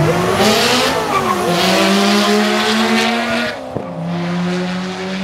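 Single-turbo Mazda FD RX7's rotary engine revving hard while the rear tyres screech through a burnout, in two spells of about one and two seconds. After a sharp click the engine settles onto steady held revs.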